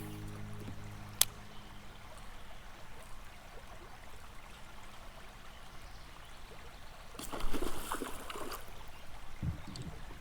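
Faint gurgling water from a Whopper Plopper topwater lure on the retrieve, with a sharp click about a second in. About seven seconds in comes a burst of splashing as a small northern pike takes the lure.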